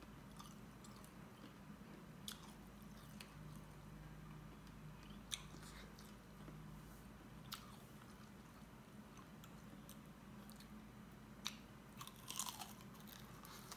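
Faint close-up eating sounds: a man chewing and biting chicken and grain dhido, with scattered sharp mouth clicks and crunches and a denser run of them near the end as he puts another mouthful in.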